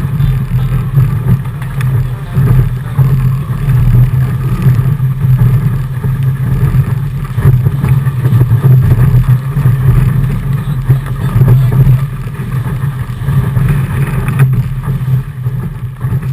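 Wind and water noise aboard a Fireball racing dinghy sailing fast in strong wind and big waves: a steady, loud low rumble.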